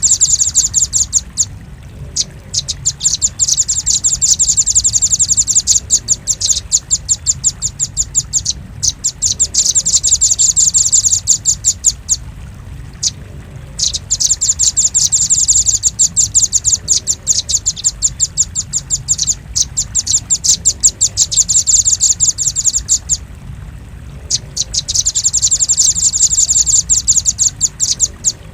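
Velvet-fronted nuthatch calls: rapid runs of high, sharp chipping notes, many to the second, going on for several seconds at a time and broken by short pauses. A steady low hum lies underneath.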